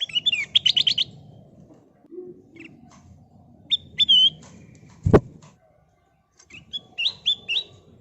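Kutilang emas bulbul singing in quick runs of short, clear whistled chirps, with scattered single notes between the runs. A single sharp thump, the loudest sound, comes about five seconds in, over a low background rumble.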